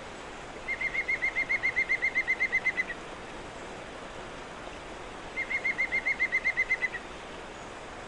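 A songbird gives two fast trills of rapidly repeated notes, each lasting about two seconds, over a steady rush of flowing river water.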